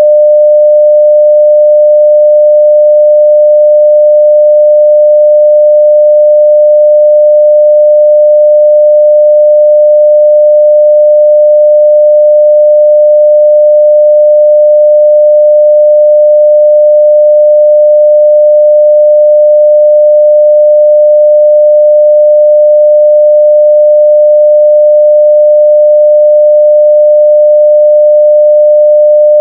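A 600 Hz sine-wave test tone, held steady at a constant pitch and full level.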